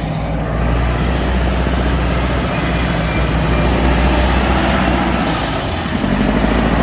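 Heavy diesel machinery running steadily under load, a deep engine drone with a broad mechanical rumble and grind over it.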